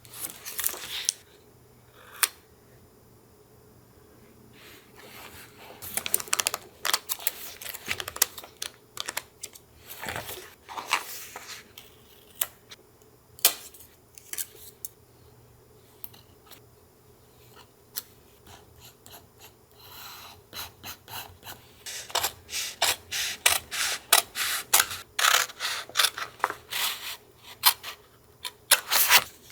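Close-up paper-crafting sounds of junk-journal collage work: paper and supplies being handled, with quick clusters of small clicks and rustles. The clicking is busiest about six to eleven seconds in and again near the end.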